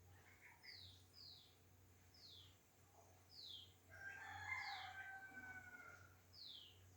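Faint bird calls: a small bird repeats a short, high, falling note roughly once a second. From about four to six seconds in, a longer, lower call with several tones runs for about two seconds.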